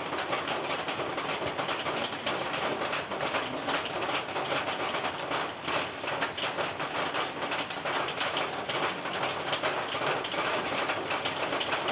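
Rain falling on a roof: a dense, steady patter of many drops hitting the roof surface.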